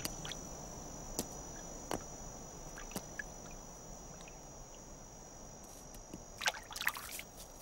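Faint water drips, single clear drops about a second apart, over a quiet steady hiss and a thin high steady tone. A brief cluster of louder splashy sounds comes near the end.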